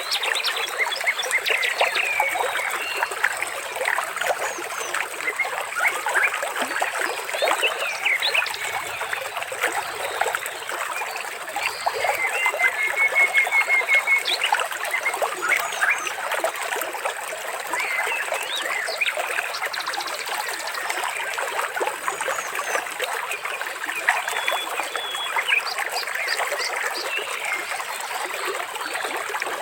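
Water trickling under a dense, continuous chorus of bird chirps and calls, with a rapid trill about halfway through.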